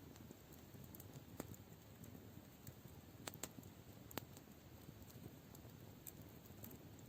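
Campfire crackling faintly: a few sharp pops and snaps over a low hiss, with the loudest three a little past the middle.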